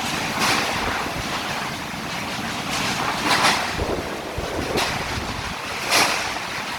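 Typhoon-force wind blowing hard and buffeting the microphone, with stronger gusts surging about half a second in, a little past three seconds and near six seconds.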